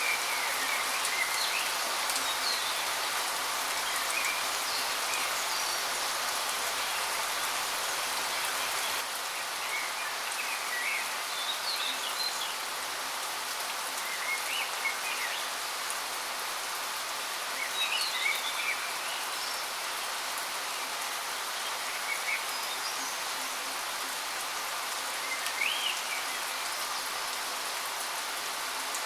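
Steady rushing of falling water from a waterfall, with short bird chirps breaking in every few seconds.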